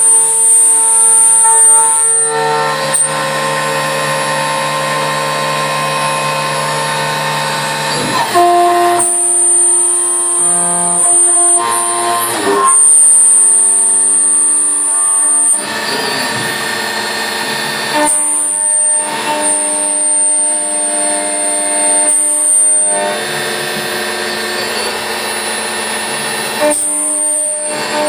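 Mazak Impulse CNC milling machine running a program on brass plate, its drives giving a steady multi-tone whine with a high squeal on top. The pitch steps to a new level every few seconds as speeds and moves change.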